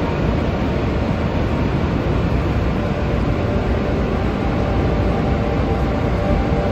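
Steady roar of Niagara Falls, a deep unbroken rush of falling water.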